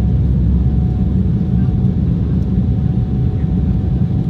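Steady low rumble of an Embraer ERJ-190's GE CF34 turbofan engines and rushing air, heard inside the cabin, with a faint steady whine over it.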